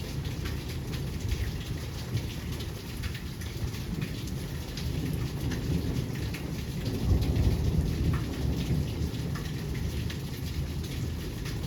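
Heavy rain falling, with a steady hiss and many fine drop impacts, over a low rumble that swells for a second or so about seven seconds in.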